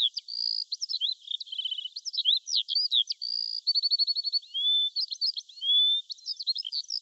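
A songbird singing a fast, varied song of chirps, short rapid trills and clear whistled notes, one phrase after another without a break.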